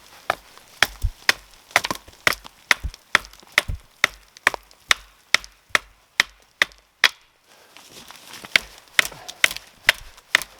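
Small hatchet chopping into a dead wooden limb with quick, regular strikes, about two to three a second. It pauses briefly about two-thirds of the way through, then starts chopping again.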